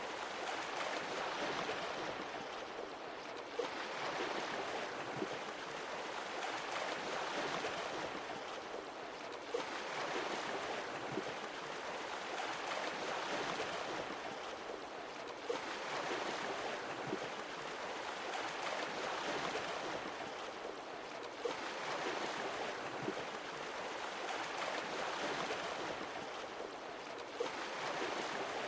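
Sea waves washing in and drawing back in an even rhythm. A swell comes about every six seconds, and each one starts with a short sharp click.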